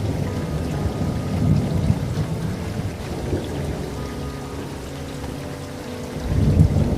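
Rain falling steadily with rolling thunder; the rumble eases in the middle and swells again near the end.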